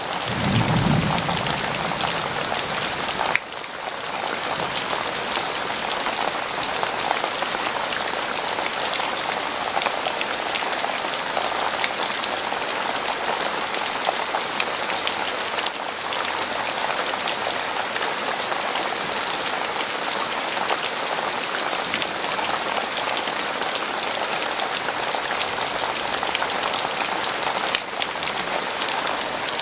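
Heavy rain falling steadily, a dense hiss of many drops striking. A brief low rumble sounds in the first second, and the level briefly dips about three seconds in.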